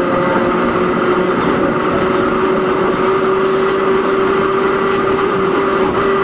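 Hakone Tozan Railway Moha 1 electric car running, its nose-suspended SE121-A traction motors and gearing giving a steady whine that creeps slightly higher in pitch, over the continuous rumble of wheels on rail.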